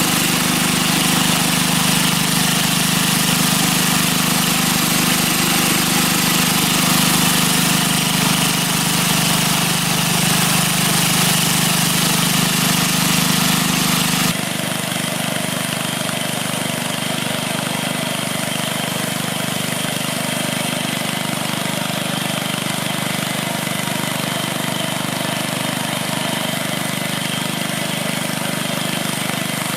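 Honda four-stroke engine of a Westermann WR870 moss brush machine running steadily while the machine is tested on moss. About halfway through, the sound abruptly gets a little quieter and loses its deepest rumble, then carries on just as steadily.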